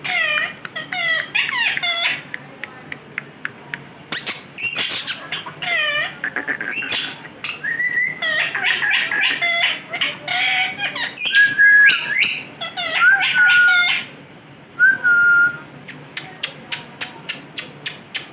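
Pet parrot whistling and calling in a rapid string of short sweeping notes, mostly falling, with a few brief held whistles around the middle and a quick run of clicks near the end.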